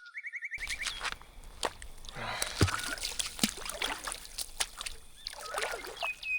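Small birds chirping in short, repeated notes over scattered light clicks and rustling, with a quick series of chirps near the end.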